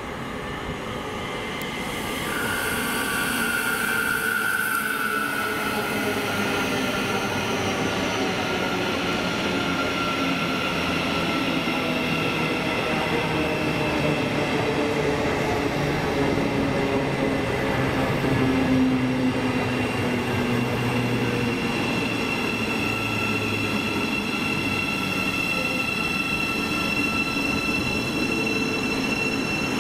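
A train running at the station: several whining tones that drift slowly down in pitch, with a burst of high hiss about two seconds in that lasts a few seconds.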